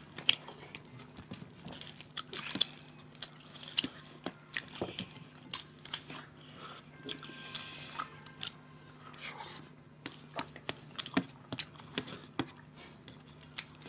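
Two people eating rice and fish with their fingers: irregular wet chewing and lip-smacking clicks, with a low steady hum underneath.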